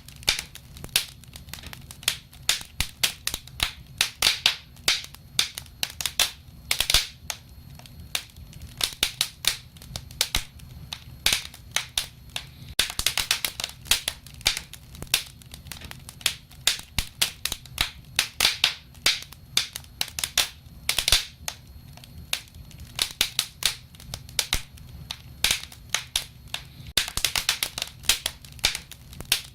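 Wood fire crackling: a dense run of sharp pops and snaps, coming in clusters, over a low steady rumble.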